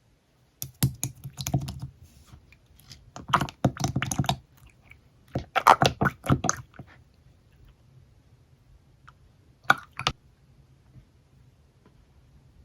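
Slime being squished and pressed by hand, giving three bursts of sticky crackling clicks, then two short pops near the end.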